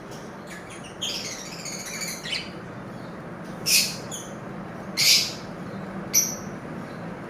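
Lovebirds calling: a burst of rapid chattering, then two loud, harsh shrieks and a shorter call near the end.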